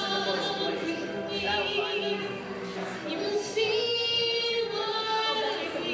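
A woman singing long held notes with vibrato over backing music.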